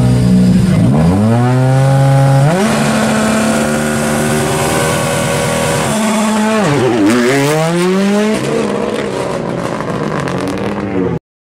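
Rally car engine under hard throttle, revs dropping sharply and climbing again twice as it brakes, changes gear and accelerates away. The sound cuts off suddenly near the end.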